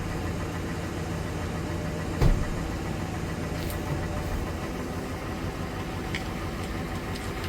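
Vehicle engine idling steadily, with a single clunk about two seconds in.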